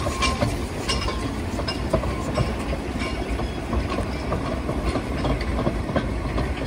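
Steam-hauled narrow-gauge goods train rolling slowly past, its wagon wheels clicking and clanking irregularly over the track over a steady low rumble.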